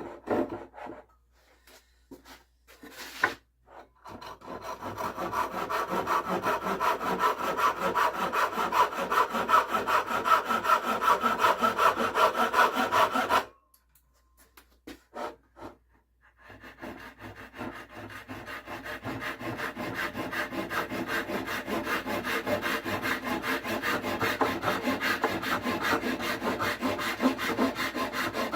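Japanese pull saw cutting wood with rapid, even strokes, in two long runs separated by a pause of about three seconds. A few scattered knocks come before the sawing starts.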